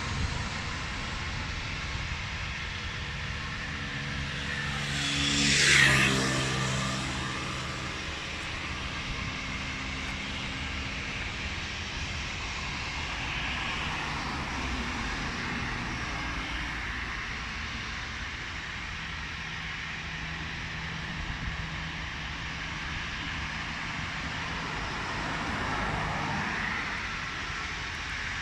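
Steady rumble of aircraft engines at an airfield, with a road vehicle passing close by about six seconds in and a fainter one swelling near the end.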